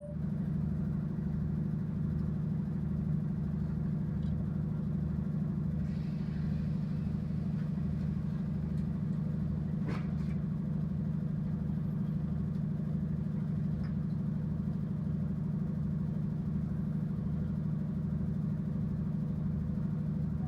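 Romanian 060-DA ("Lema") diesel-electric locomotive's engine running steadily, a low hum with a slow regular throb beneath it. A single sharp click about halfway through.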